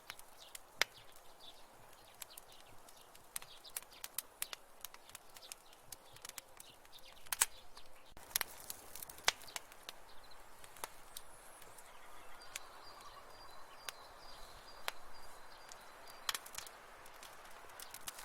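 Wood fire in a fireplace crackling, with irregular sharp pops and a few louder snaps over a soft hiss.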